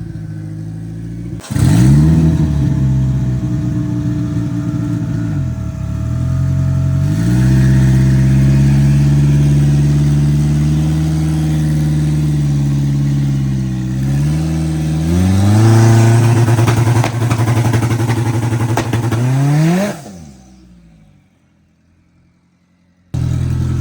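Turbocharged drag-race car engine brought up against the brake: it jumps in revs about 1.5 s in, holds a steady high engine note for several seconds, climbs again with a drop just before 15 s, then falls away and fades out about 20 s in. Near the end the engine is abruptly heard again at a lower steady note.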